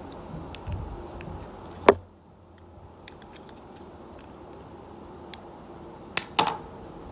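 Small objects being handled: scattered light ticks and taps, a sharp click about two seconds in, and two more clicks close together near the end.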